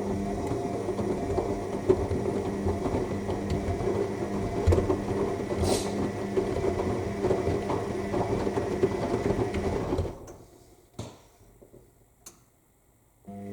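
AEG 7000 Series front-loading washing machine tumbling its drum during the final rinse: the drum motor runs, then stops about ten seconds in. Two short clicks come in the pause that follows.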